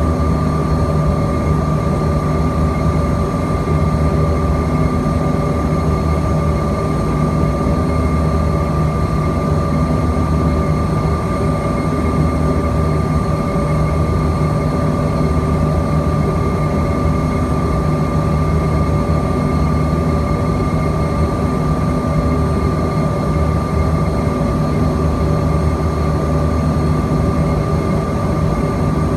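Steady cabin drone of a Bombardier CRJ-200ER's rear-mounted General Electric CF34 turbofans, a constant rush of noise with a held high whine and a low hum that slowly pulses.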